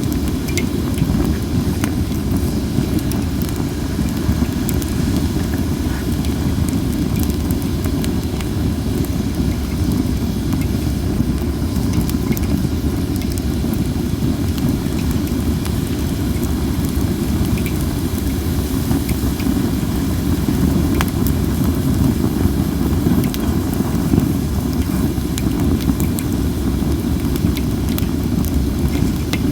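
Cherry-wood campfire crackling with scattered sharp pops, over a steady low rumble of strong wind on the microphone. The firewood is not dried enough and hisses as it burns.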